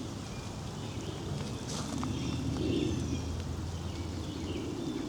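Woodland outdoor ambience: a steady low rumble with faint short bird chirps over it, a little louder in the middle.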